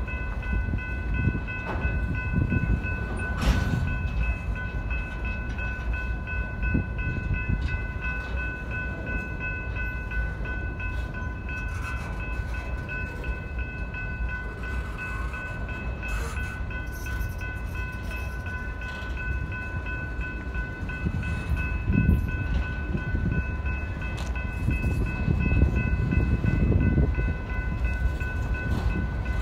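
BNSF freight train of open-top hopper cars rolling past: a steady low rumble of wheels on rail with scattered clanks and knocks. Over it, the grade-crossing warning bell rings without a break.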